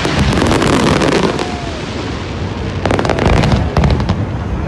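Fireworks display: rapid clusters of crackling bursts over a continuous low booming, with one dense volley at the start and another about three seconds in.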